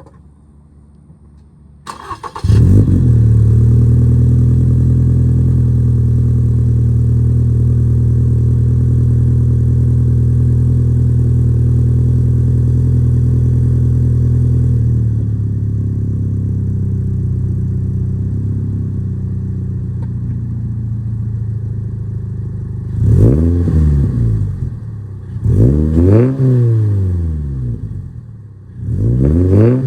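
Toyota GR86's 2.4-litre flat-four boxer engine, through a Tomei Expreme Ti titanium cat-back exhaust, cranking and catching about two seconds in. It settles to a steady, raised cold-start idle that drops a step about halfway through. Near the end it is blipped three times, each rev rising and falling.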